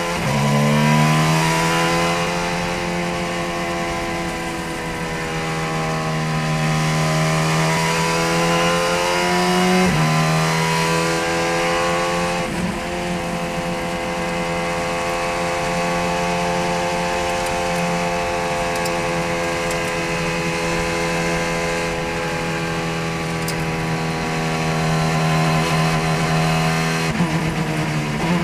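Racing car engine held at high revs, its pitch holding fairly steady with slow rises and falls. There is a quick gear change about ten seconds in and a lift off the throttle near the end.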